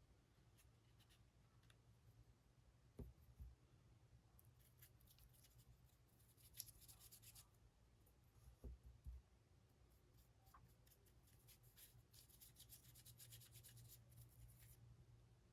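Faint, quiet scratching of a paintbrush's bristles rubbed in quick strokes over a painted 3D-printed figure, in two runs. There are a couple of soft low bumps from the model or brush being handled.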